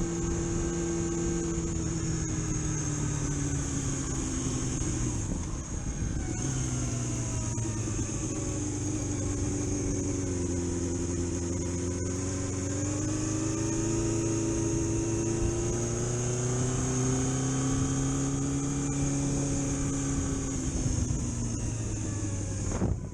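Vehicle engine running on a test drive, its pitch falling, then rising and falling again as the speed changes. A steady high-pitched whine runs alongside it.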